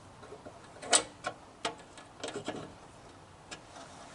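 Hand tools working on a bolt of a lawn mower engine as it is tightened back down: a handful of separate sharp metal clicks at uneven intervals, the loudest about a second in.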